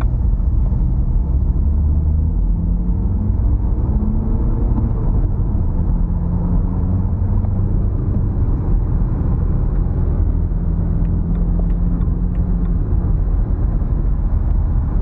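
Turbo-diesel car engine and road rumble heard from inside the car while driving, a steady heavy low rumble with the engine note shifting in pitch a few times as it accelerates and changes gear.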